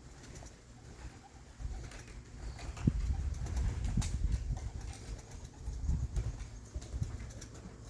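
Young racing pigeons cooing in the loft, with a few sharp knocks about three and four seconds in over a steady low rumble of movement near the microphone.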